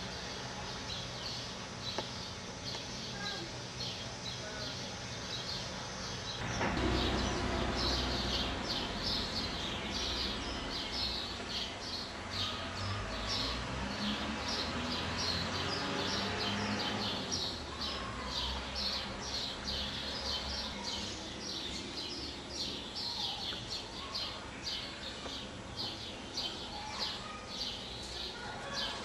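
A bird chirping over and over, short high chirps at about three a second, starting about a quarter of the way in and going on steadily, over a low background rumble.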